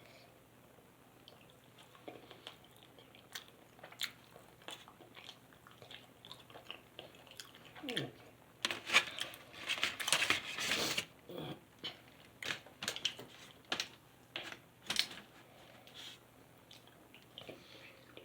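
A person chewing and biting food, with wet mouth clicks throughout. The sound is busiest and loudest for a few seconds around the middle.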